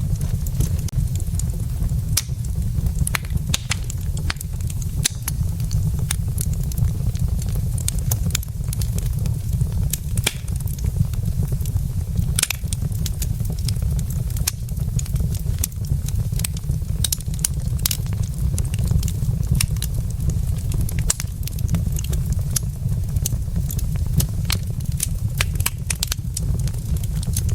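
Burning wood logs crackling, with frequent irregular sharp snaps and pops over a steady low rumble.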